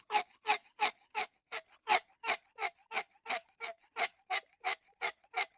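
Clock ticking steadily, about three ticks a second: a countdown-timer sound effect marking the thinking time for a quiz question.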